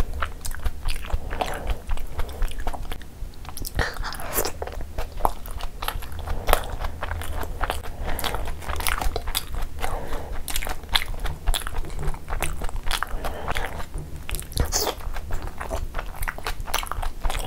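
Close-miked chewing and biting of big chicken momos soaked in spicy gravy, eaten by hand, full of short mouth clicks and smacks.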